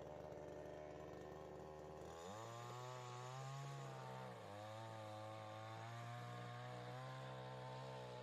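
A small engine running, faint, with its pitch climbing sharply about two seconds in as it revs up. It dips briefly about halfway through, holds steady at high revs, and starts to fall back near the end.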